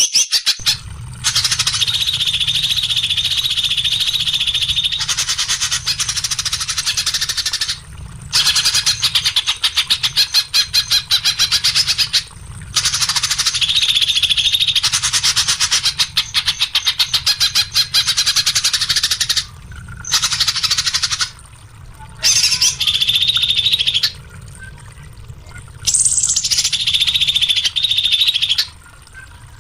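A songbird singing long, very rapid runs of high chirps and trills, each run lasting several seconds and broken by short pauses.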